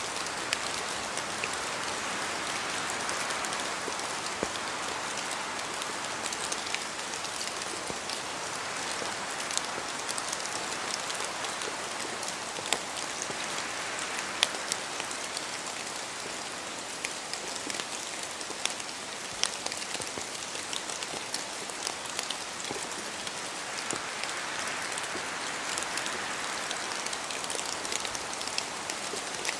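Steady rain in a forest, with scattered louder drops falling from the trees and ticking sharply through the hiss. Gentle swells of wind rise and fall about every ten seconds.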